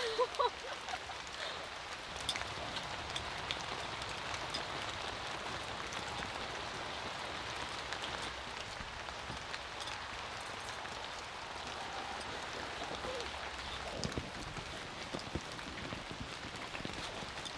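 Steady rain falling, an even hiss with scattered individual drops ticking. A brief gliding squeak sounds right at the start.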